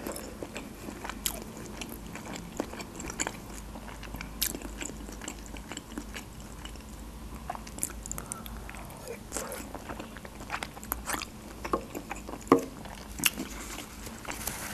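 A person biting and chewing soft cabbage rolls, with wet mouth smacks and sharp clicks at irregular intervals; the loudest smack comes near the end.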